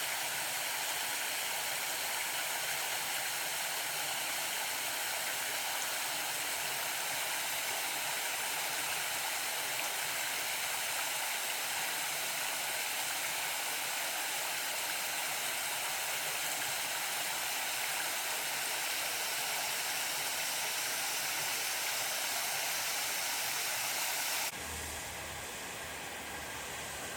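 Small garden waterfall running, a steady rush of falling water. About 24 seconds in the sound cuts abruptly to a quieter, duller rush with a faint low hum underneath.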